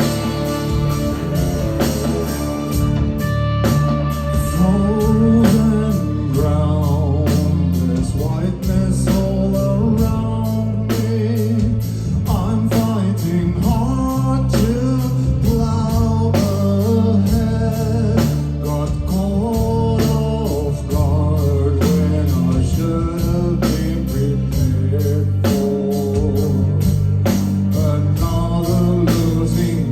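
Progressive rock band playing live: a sung vocal line over electric guitars, bass and drums, with a steady beat.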